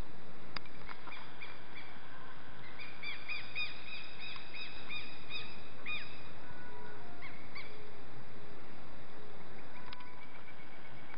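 Birds calling: a run of short, repeated chirps, thickest from about three to six seconds in, and a quick trill of notes near the end, over a steady outdoor hiss.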